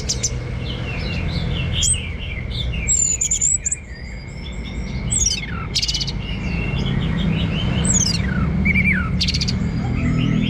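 Orange-headed thrush singing a varied run of whistled notes and quick downward-sweeping phrases, with a few sharp high chips, over a steady low hum.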